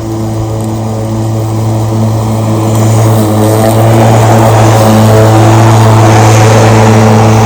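Milwaukee M18 cordless electric lawn mower running with a steady hum from its spinning blade. About three seconds in it grows louder, with a rushing noise added as it cuts grass and sucks up leaves.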